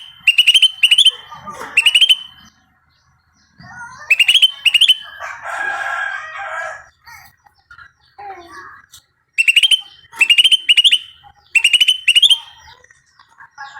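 Bird calling in bursts of three or four short, sharp, rising notes, repeated several times with pauses between them, and a longer, harsher call about five seconds in.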